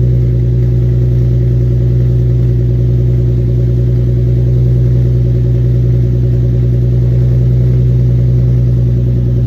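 Infiniti G35 Coupe's 3.5-litre VQ V6 idling steadily after a cold start, through an aftermarket single-exit exhaust whose leak has just been fixed.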